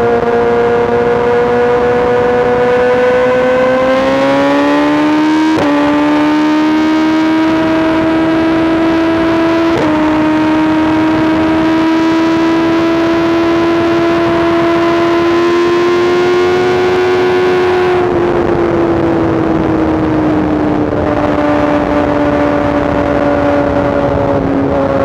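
Inline-four superbike engine running hard at highway speed. Its pitch climbs a few seconds in, jumps up sharply twice and holds high, then falls away steadily over the last stretch as the throttle eases.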